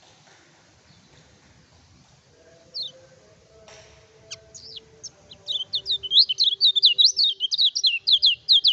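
Kecial kuning white-eye singing: a couple of single high notes, then from about five seconds in a fast run of high notes sweeping downward, several a second, that stops abruptly.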